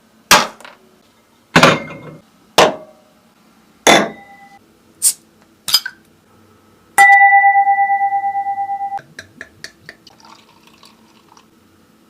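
Six sharp knocks at irregular intervals, then a pulsing ringing tone about two seconds long that cuts off suddenly, followed by a quick run of light clicks.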